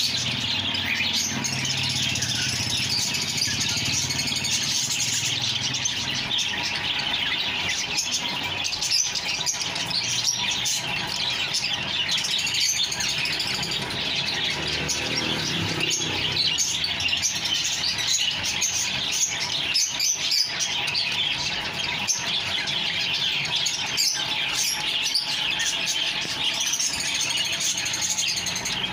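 A crowd of caged small parrots, budgerigars and lovebirds, chirping and chattering without pause in a dense, noisy din. A low rumble sits underneath in the first few seconds and again around the middle.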